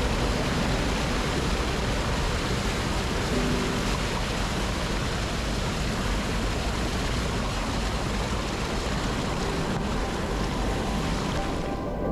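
Rushing water, a steady unbroken roar of a waterfall or fast river current.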